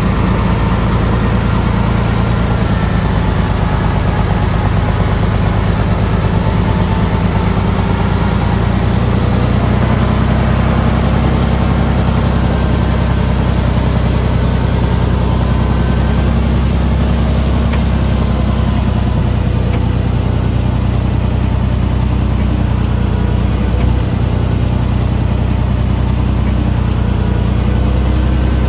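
Heavy diesel engine of a construction machine running steadily with a deep, even drone.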